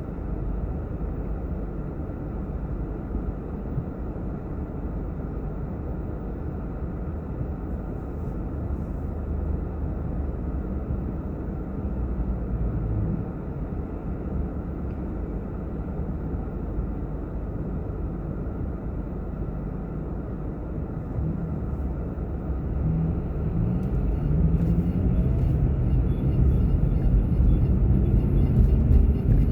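Car driving, heard from inside the cabin: a steady low road and engine rumble that grows louder over the last few seconds as the pitch rises slightly.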